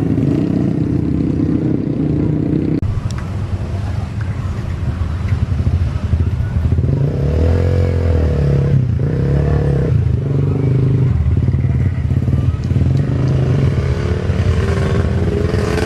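Jet airliner engines, a loud, steady low rumble. Around the middle the pitch sweeps and bends as the aircraft passes, and a rising tone comes in near the end.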